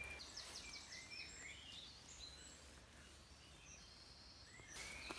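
Faint birdsong over near silence: small birds chirping, with a quick high trill about half a second in, and a soft hiss coming in near the end.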